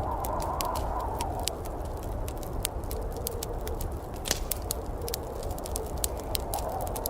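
Wood fire crackling in a fireplace: irregular sharp pops and snaps, one louder pop about four seconds in, over a steady low rumble.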